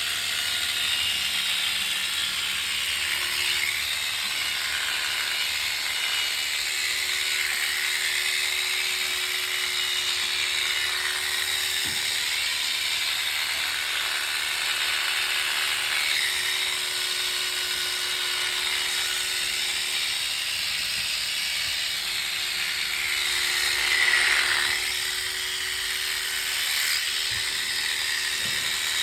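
Electric sheep-shearing clippers running steadily as they cut through a sheep's fleece, the pitch of the blades shifting now and then, with a brief louder swell about three-quarters of the way through.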